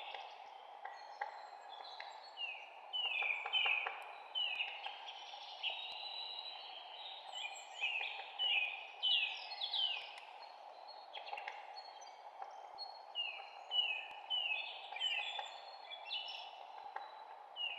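Songbirds chirping: many quick, downward-sliding chirps in bouts throughout, over a steady background hiss.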